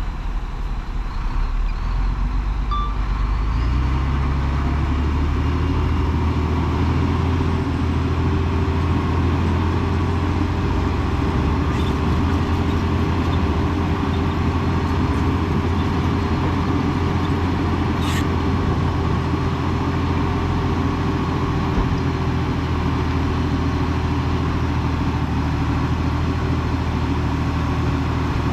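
Heavy diesel engine of earthmoving equipment running steadily. It builds up over the first few seconds, with a single sharp click about eighteen seconds in.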